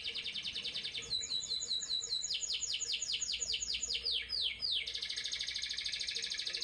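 Young white-rumped shama singing: a fast, high rattling trill, then about a second in a run of downward-sweeping whistled notes at about four a second, then the fast trill again near the end.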